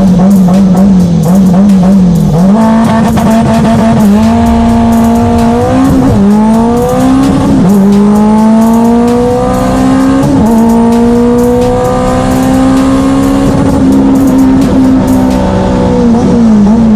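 Turbocharged K24 four-cylinder in a Honda Civic hatch pulling hard, its pitch climbing and dropping sharply at each upshift, three times in the middle of the stretch. Before that the engine note wavers quickly up and down.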